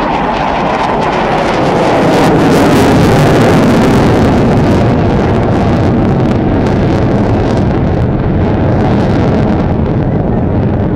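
Military jet flying past, loudest about three seconds in, its engine note sliding down in pitch as it goes by and then fading into a steady rumble.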